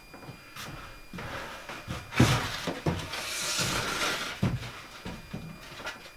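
Knocks and a scrape from handling interior wall panels during fitting: a sharp knock about two seconds in, a scraping hiss for about a second, then another knock.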